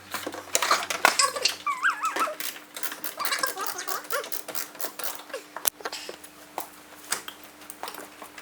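An animal making short whining calls that waver up and down in pitch, mostly in the first half, among many scattered clicks and taps.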